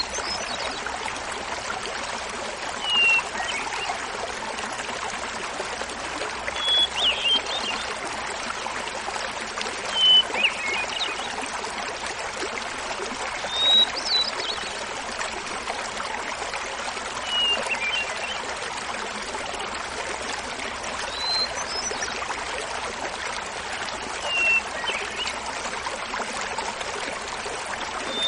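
Hermit thrush singing over the steady babble of a small mountain waterfall. It sings about seven phrases, one every three to four seconds, each a clear held note followed by a quick flourish, pitched differently from phrase to phrase.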